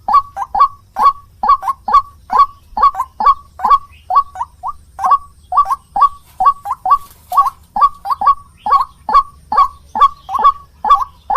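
White-breasted waterhen (ruak-ruak) calling: a loud, steady run of short, downward-sweeping notes at about three a second, some in quick pairs.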